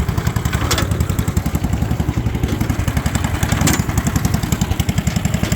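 Mounted Case engine on a Case hay press running steadily with a fast, even exhaust beat, while the press clanks sharply twice, about three seconds apart.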